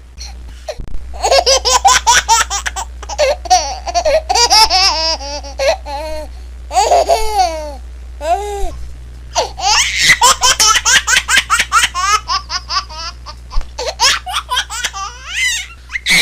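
Baby laughing hard in quick, high-pitched bursts of giggles and belly laughs, several bouts with short breaths between them.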